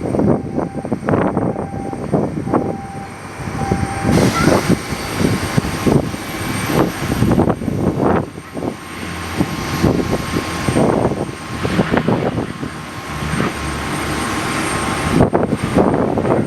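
Aircraft engine running steadily, heard through heavy wind buffeting on the microphone that gives irregular gusty thumps.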